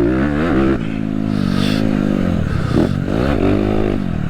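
Dirt bike engine being ridden hard, its pitch climbing and falling with the throttle and gear changes, with a sharp drop and climb again a little past the middle.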